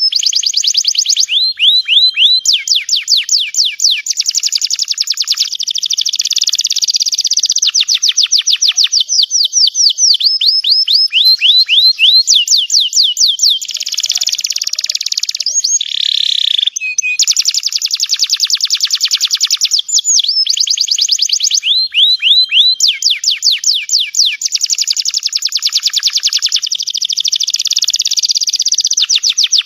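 Domestic canary singing loudly and without pause: long runs of fast trills made of rapidly repeated downward-sweeping chirps, changing from one trill to the next every few seconds, with a short harsher buzzing passage about halfway through.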